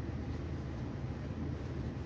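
Steady low rumble of a Railjet passenger train running at speed, heard from inside the carriage.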